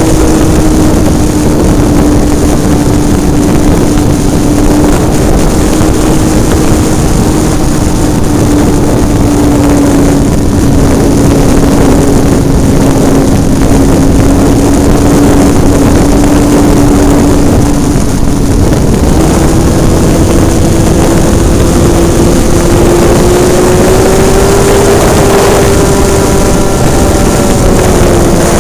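Engine of a Hobbistar 60 RC model airplane running steadily, heard close up from on board over the rush of air. Its pitch sags slowly, then climbs in two steps in the later part and dips again near the end.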